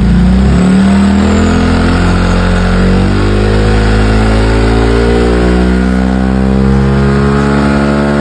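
Honda Vario scooter's single-cylinder engine running steadily through an aftermarket RaceX exhaust, its pitch creeping slightly upward.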